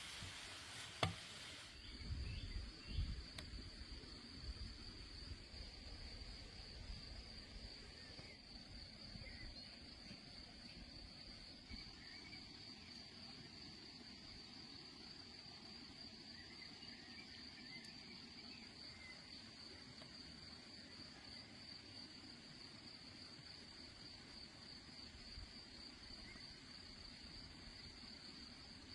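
Insects chirring in a steady, high-pitched drone, with a few low thumps in the first few seconds.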